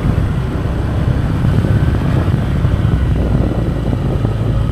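Motorbike running along a road, its engine drone mixed with heavy wind buffeting on the microphone, steady throughout.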